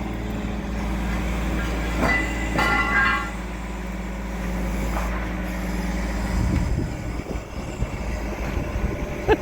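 A crane's diesel engine runs steadily under load during a heavy lift, a low, even hum. About six and a half seconds in the steady note drops away into a rougher, uneven low rumble. A brief higher-pitched sound comes about two to three seconds in.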